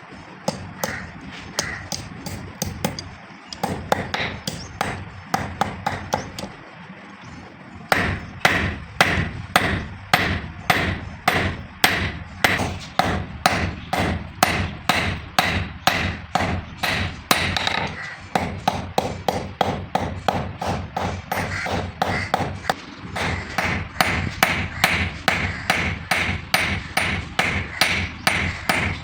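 Hand hammer striking steel on an anvil while forging, each blow with a metallic ring. Lighter, uneven blows for about the first eight seconds, then heavier, steady blows about two a second.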